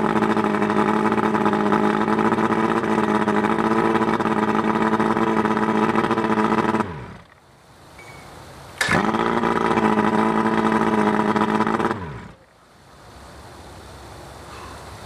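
Johnson 140 outboard's V4 two-stroke engine running steadily, then shut off about seven seconds in and winding down. About two seconds later it is restarted and catches at once, runs steadily for a few seconds, and is shut off again, leaving only a faint background hiss.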